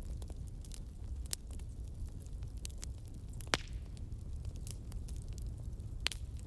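Wood logs burning in a fireplace: a steady low rumble of the fire with frequent crackles and pops, one sharp loud pop about three and a half seconds in and another near the end.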